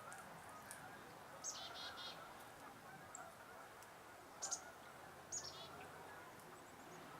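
Small songbird calls: three short high calls, about a second and a half, four and a half and five and a half seconds in, each sliding down and running into a quick series of buzzy notes, over a faint steady outdoor background.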